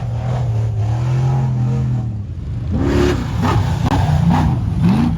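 Off-road prerunner truck engine running at a fast idle, then revved up and down in several quick blips from about three seconds in.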